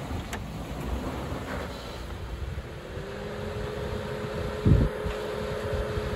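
Suzuki Jimny's 1.5-litre four-cylinder engine running steadily under load at low revs, crawling in first gear in low-range 4WD (4L). Its pitch rises slightly about three seconds in. A dull thump comes about four and a half seconds in.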